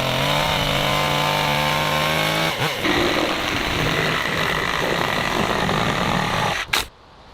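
Chainsaw running at full throttle with a steady whine, then cutting into a log, its sound turning rough and noisy from about two and a half seconds in, until it stops near the end.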